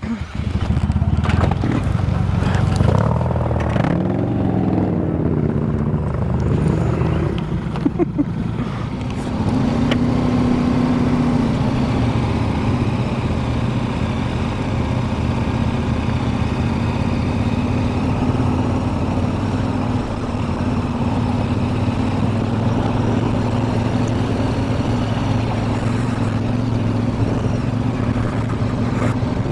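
CFMoto 450MT's parallel-twin engine running under the rider at low speed. It comes in suddenly at the start, rises and falls in pitch a few seconds in as the bike pulls away, then runs steadily.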